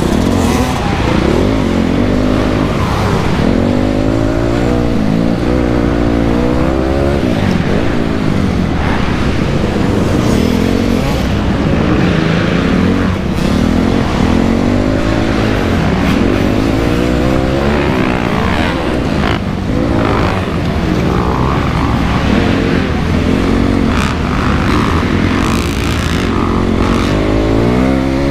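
2008 Honda CRF250R's single-cylinder four-stroke engine revving up and dropping back again and again under riding, its pitch rising and falling every second or two.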